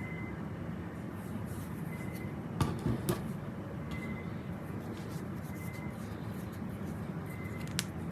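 Steady low background hum with a few sharp clicks and taps: two close together about a third of the way in, and one more near the end.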